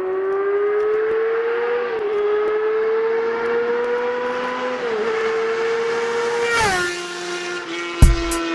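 Motorcycle engine accelerating through the gears. Its pitch climbs steadily and dips briefly twice where it shifts up, then falls sharply with a whoosh about six and a half seconds in. A music beat comes in near the end.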